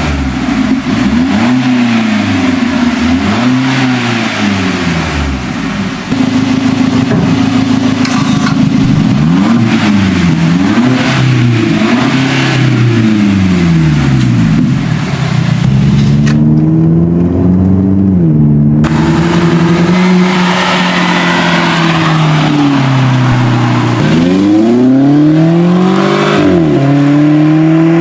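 Mercedes-Benz C200 turbocharged four-cylinder (M264) through an RES cat-back valved exhaust, revved in a series of blips that rise and fall every couple of seconds. In the second half the revs are held steadier, with slower climbs and a few more rises near the end.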